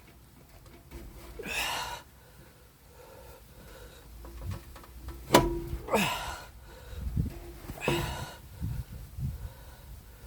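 A man breathing out hard three times while straining at a job, with a sharp metallic click or knock about five seconds in.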